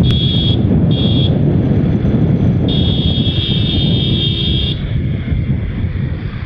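A high-pitched vehicle horn beeps twice briefly, then gives one long blast of about two seconds. Under it runs a steady rumble of motorcycle engine and traffic, with wind on the microphone.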